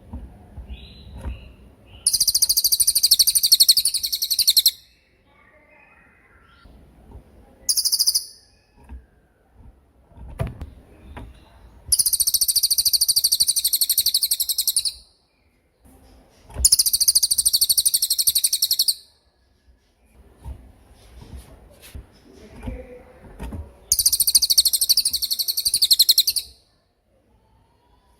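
Cililin songbird singing its 'tembakan' call: loud, very rapid, high-pitched rattling trills, four of them lasting two to three seconds each and a short one about eight seconds in, separated by quieter gaps.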